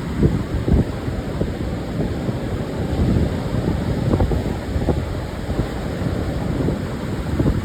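Pacific surf washing steadily onto a sandy beach, with wind buffeting the microphone in short low thumps several times.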